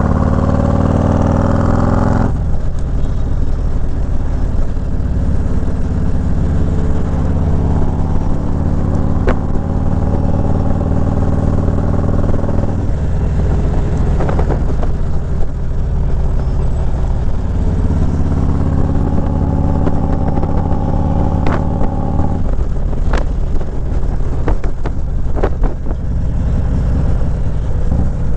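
Harley-Davidson motorcycle engine running at road speed, its note dropping about two seconds in and shifting several more times as the bike changes speed or gear.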